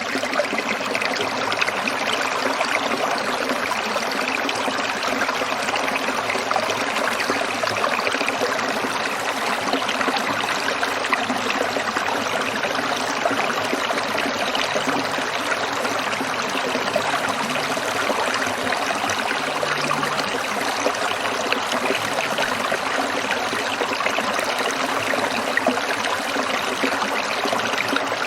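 Shallow stream trickling and burbling over stones, a steady, unbroken water sound.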